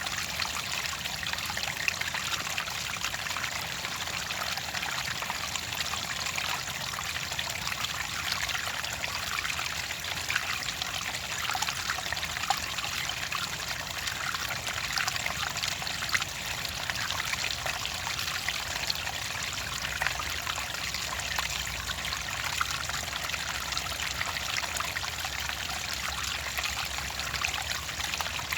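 Water trickling and splashing steadily, a small stream or running flow with a continuous bubbling patter.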